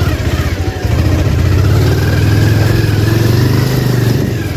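Motorcycle engine running under load, pulling harder from about a second in and easing off near the end.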